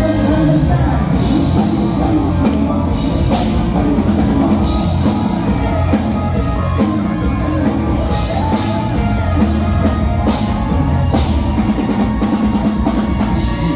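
Live luk thung band playing an instrumental passage, with a drum kit keeping a steady beat.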